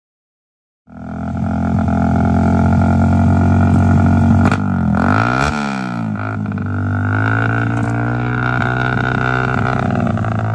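Motorcycle engine running with a steady buzzing drone that comes in after a second of silence. Its pitch dips and climbs back about five seconds in.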